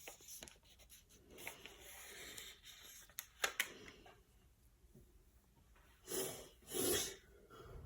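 Paper rustling and crinkling as a folded paper airplane is handled, with two sharp clicks about three and a half seconds in and two short rushing noises near the end.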